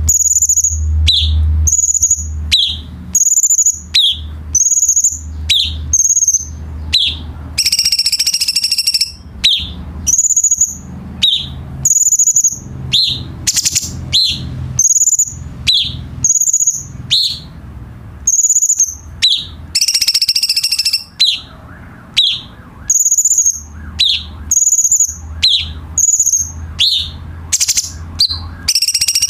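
Cucak cungkok songbird singing: a repeated two-note phrase, a short high whistle followed by a lower note that drops away, about once a second. Every few seconds it breaks into a brief burst of harsher, denser chatter.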